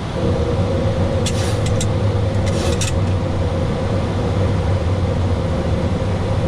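Boeing 737-800 flight deck noise during the takeoff roll: a steady low rumble with a constant hum over it. Brief rattles come a little over a second in and again at about two and a half seconds.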